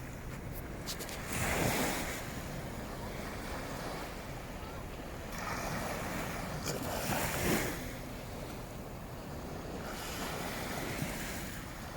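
Waves breaking on a beach in strong wind, the rush of surf swelling and fading several times, with wind buffeting the microphone as a low rumble underneath.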